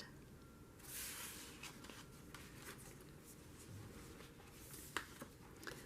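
Faint rustle of journal paper pages being handled, with a single soft tap about five seconds in, over quiet room tone.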